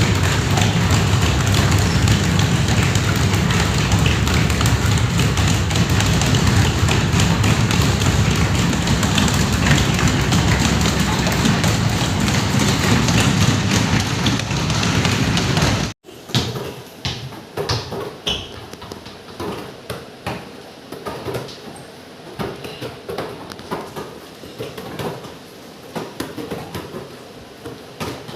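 Rapid footfalls and taps of children running training drills, under a loud steady low rumble for the first half. After a sudden cut about halfway through, it is quieter, with separate footsteps and knocks.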